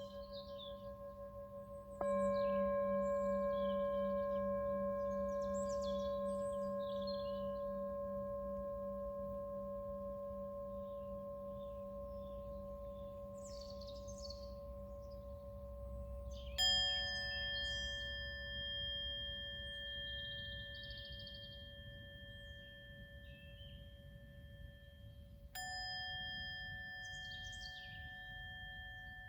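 Singing bowls struck one after another and left to ring, each tone slowly fading. A low bowl with a wavering hum sounds about two seconds in, a brighter, higher one is struck just past the middle, which is the loudest strike, and another comes near the end. Birds chirp in the background.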